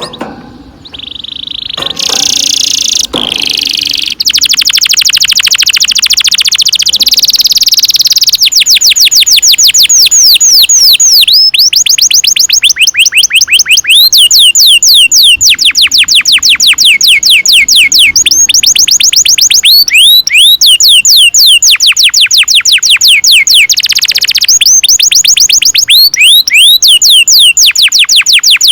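Domestic canary singing a long roll: after a dense buzzy phrase in the first few seconds, long runs of rapid, evenly repeated notes, each sweeping downward in pitch, broken by short pauses.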